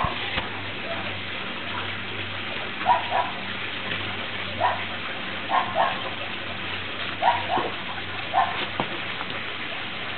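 Norrbottenspets puppies yipping in short, high calls, often two at a time, over the steady hiss of falling rain.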